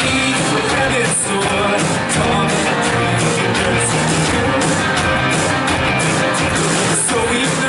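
Live worship band playing a rock-style song with guitar and drums, with some singing mixed in.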